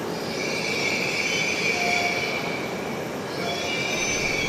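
A Shinkansen bullet train pulling slowly into a station platform, its rolling rush topped by a steady high squeal as it slows. The squeal eases off about halfway through and comes back near the end.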